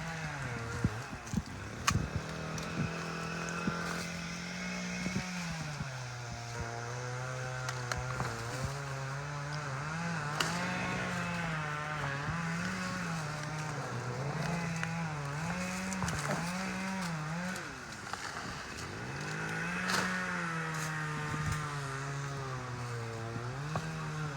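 An engine running, its speed rising and falling in slow waves, with a few sharp knocks.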